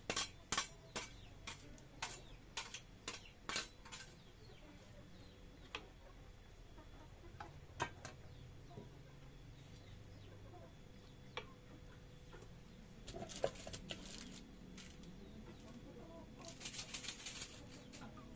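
Sharp knocks and clinks of kitchen utensils, about two to three a second for the first four seconds, then scattered single knocks, with quick rattling clusters near the end.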